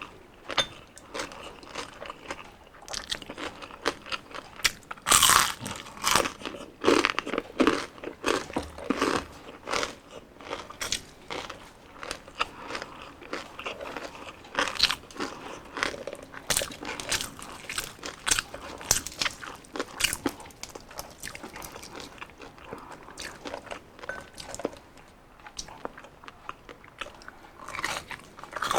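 Close-up crunching as a person bites and chews deep-fried crispy pork skin, with irregular sharp crackles. The loudest crunching comes about five to nine seconds in.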